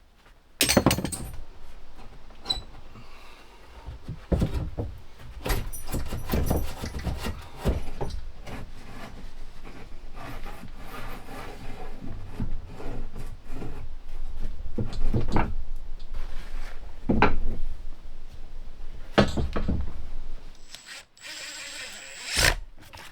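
Hand and power tool work on wood: wood screws driven in with a drill, and knocks and scraping from a hammer and pry bar prying up the old material. There are several sharp hits, the loudest about a second in and near the end.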